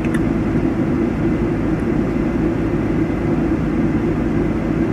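Steady, unchanging low drone of an idling vehicle engine, with an even hiss over it.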